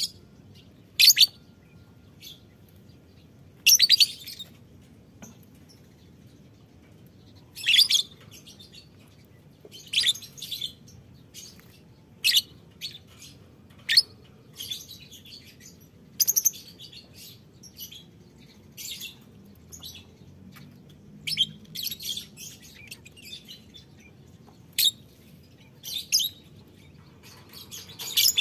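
Lovebirds chirping: short, high-pitched calls in separate bursts every second or two, some in quick clusters.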